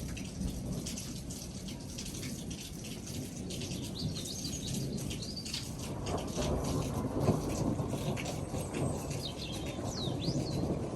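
Rain falling steadily in a thunderstorm, with a low roll of thunder building about halfway through. A bird chirps briefly a couple of times above the rain.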